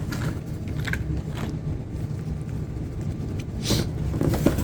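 Packaging being handled while parts are unboxed: a few brief rustles and scrapes, the clearest near the end, over a steady low hum.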